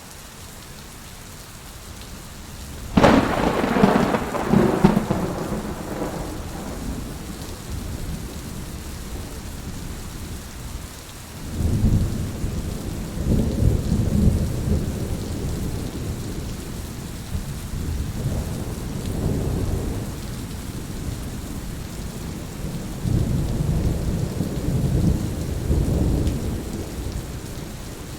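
Heavy rain falling steadily, with thunder: a sharp crack about three seconds in that rolls on for a few seconds, then several long, deep rumbles later on.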